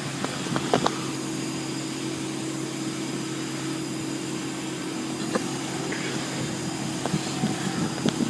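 Steady mechanical hum of machinery running, with a few light clicks and knocks.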